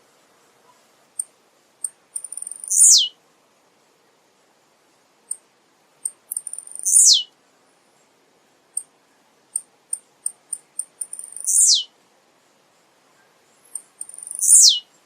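Male blue-black grassquit (tiziu) singing: four short songs about three to four seconds apart, each a few brief high ticks followed by a quick, loud note sweeping steeply downward.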